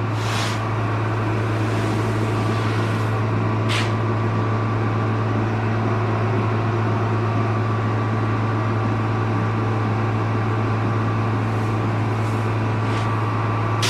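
Grain-handling machinery for the corn bin and grinder running with a steady, even hum. It is broken by a few short scraping sounds from shovelling the corn.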